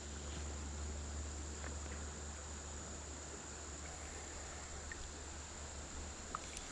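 Faint steady outdoor background: a low rumble under a constant high-pitched hum, with a few faint ticks.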